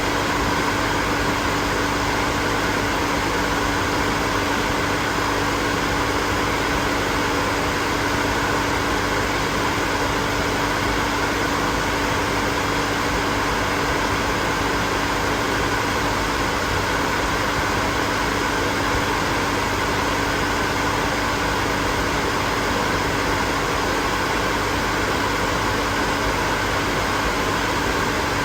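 Hair dryer running steadily: an even rush of blown air with a constant motor hum, no change in speed.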